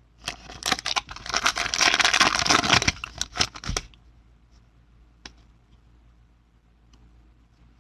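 Foil wrapper of a trading-card pack being torn open and crinkled for about four seconds, followed by a few faint ticks.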